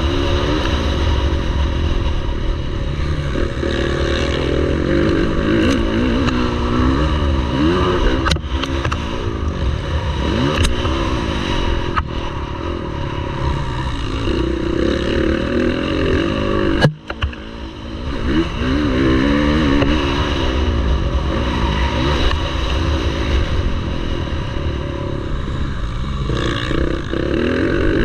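Several MX1 motocross bikes racing, their engines revving up and down over and over with overlapping pitches. There is a sharp knock about two-thirds of the way through, followed by a brief dip in the sound.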